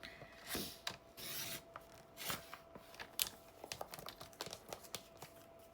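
Paper trimmer cutting a thin strip off cardstock: a short scraping hiss about a second in as the blade runs along its track, among small clicks and taps of the paper and trimmer being handled.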